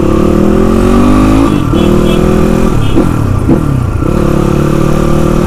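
Motorcycle engine running at low road speed: its pitch climbs slowly, drops sharply about a second and a half in, swoops up and down in a few quick throttle blips around three seconds in, then holds steady.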